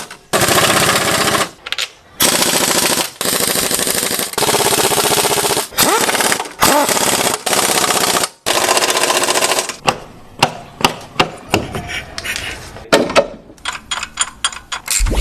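Impact wrench hammering in repeated bursts of one to two seconds, driving home the bolts that join the gearbox to the engine. From about ten seconds in it gives way to scattered lighter clicks and knocks of tools.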